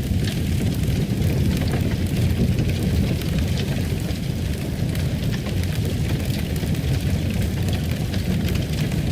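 Wood fire in a fireplace crackling: a steady low rumble of the flames with many small, irregular pops and snaps.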